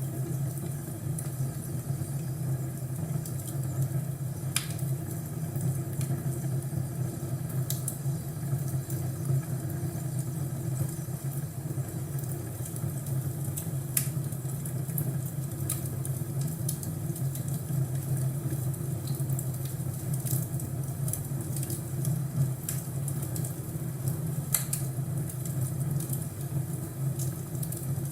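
Crackling fireplace: a wood fire giving scattered sharp pops and snaps over a steady low hum.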